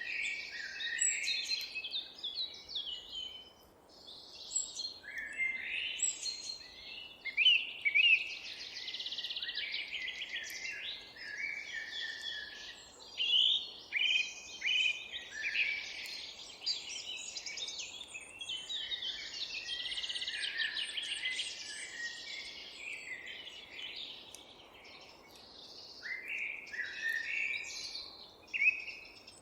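Several songbirds singing at once, with overlapping chirps and warbling phrases throughout and a short lull about four seconds in. A faint steady background noise sits underneath.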